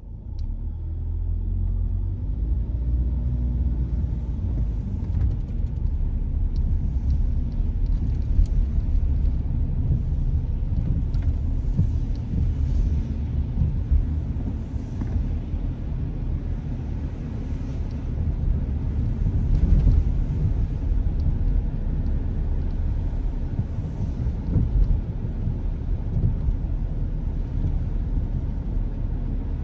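A car driving on a rain-wet road: a steady low rumble of road and engine noise with tyre hiss above it, growing louder in the first second and then holding steady.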